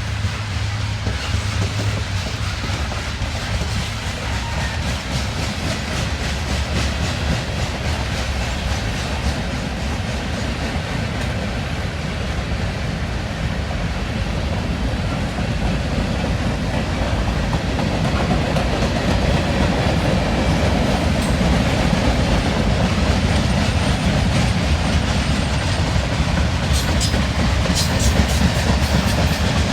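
A train rolling past: steady rumble and clatter of railroad cars on the track, growing a little louder partway through, with a run of sharp clicks near the end.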